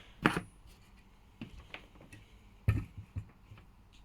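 Scattered clicks and knocks of a homemade metal soldering iron stand and its iron being handled and set into place, with two louder knocks, one just after the start and one about two-thirds of the way through.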